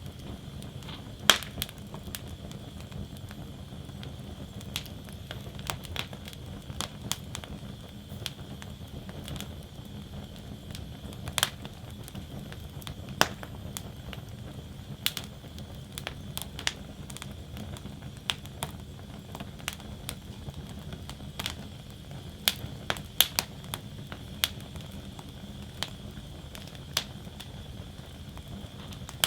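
Wood fire burning in a fire basket, crackling steadily with irregular sharp pops and snaps of burning wood over a low, even rustle of flames.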